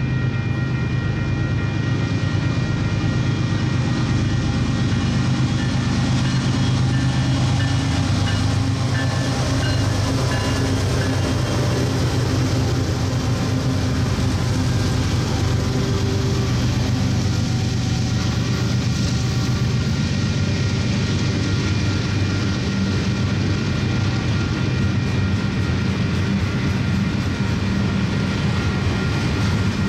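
Union Pacific diesel-electric locomotives working upgrade as they approach and pass, with a steady low engine drone and a few steady higher tones. Double-stack intermodal container cars then roll past, the steady rail noise carrying on at the same level.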